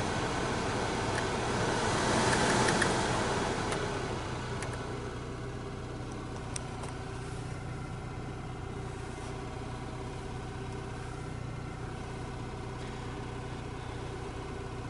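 Opel Vectra C heater blower fan running with a strong rush of air, then turned down about four seconds in to a quieter steady hum. The motor has fresh brushes fitted to cure a growl, and they are not yet bedded in.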